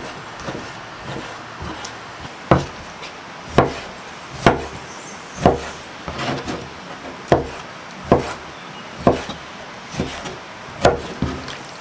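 Repeated chopping blows, a blade striking into wood, light at first, then heavier and steady at about one stroke a second.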